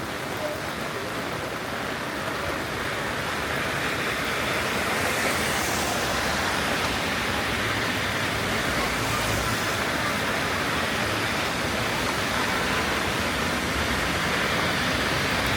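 Steady rain falling, an even hiss that grows slightly louder over the first few seconds.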